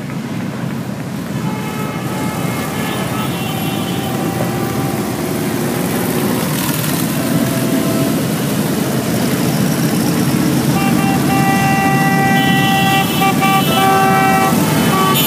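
Motorcycle engines running, growing louder, with vehicle horns sounding held notes from about a second and a half in and more of them from about eleven seconds in.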